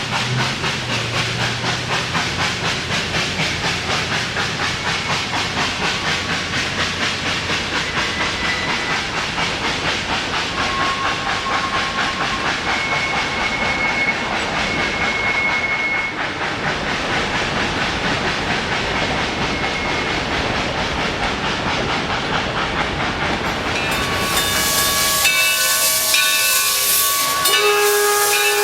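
Great Smoky Mountains Railroad 2-8-0 steam locomotive No. 1702 working, its exhaust chuffing in an even rhythm. Near the end, a steam whistle blows a chord over loud hissing steam.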